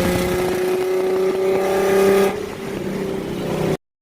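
Nissan 370Z's 3.7-litre V6 running through a modified exhaust (resonated test pipes and an X-pipe) while driving, a steady engine note that rises slightly in pitch. About two seconds in it gets quieter as the throttle eases, and it cuts off suddenly near the end.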